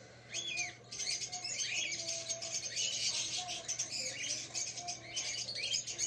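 Young cockatiels chirping: many short, quick calls, some sweeping up or down in pitch.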